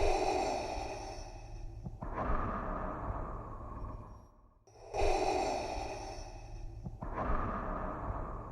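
Darth Vader's respirator breathing sound effect: a slow, hissing mechanical breath in and out through the mask, repeating at an even pace. There are about two full breaths, each a little under five seconds long with a short pause before the next.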